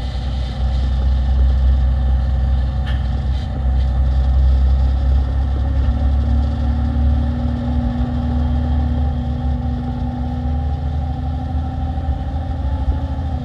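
Diesel engine of a 2016 Peterbilt 348 plow truck running steadily, a low drone with a steady hum above it.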